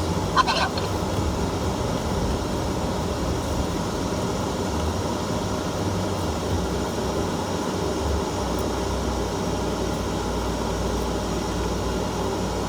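Off-road vehicle driving on a dirt trail: a steady rumble of engine and tyre noise.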